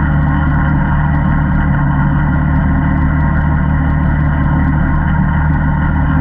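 ATV engine running at a steady speed, its pitch holding level throughout, with a few faint clicks over it.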